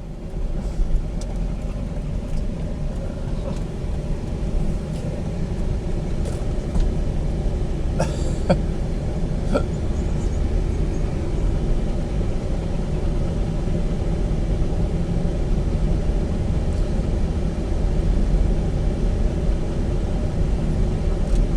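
Steady low road and engine rumble inside a moving car's cabin, with a few brief sharp sounds about eight to nine seconds in.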